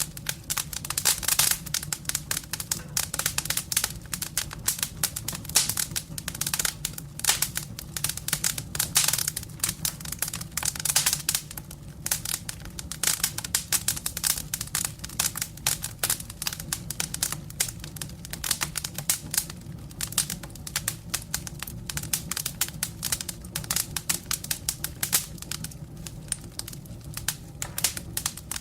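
Wood burning in a fireplace, crackling and popping densely and irregularly over a low, steady rumble.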